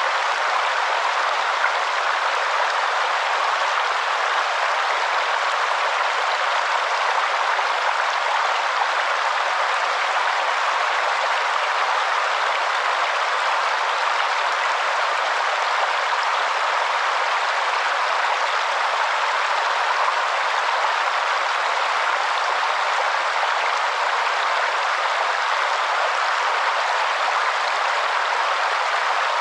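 Waterfall: steady rushing water with no change or breaks, its sound lying in the middle and upper range with little low rumble.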